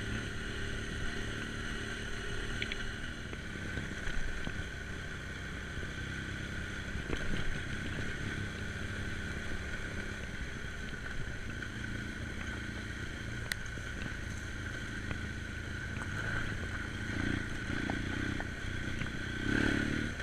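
BMW GS adventure motorcycle's engine running steadily at low trail speed, heard from on board the bike, with a steady high whine above it and a few sharp clicks and knocks.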